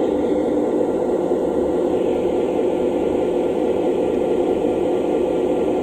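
Lionel Legacy model locomotive's onboard sound system playing a steady engine running sound, held after start-up while it waits for clearance to pull.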